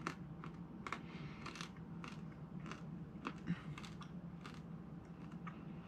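Faint, irregular crunching clicks of an espresso bean being chewed.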